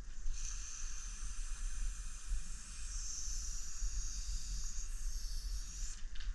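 Aerosol spray paint can hissing in one long continuous spray of about six seconds, stopping near the end, over a low rumble.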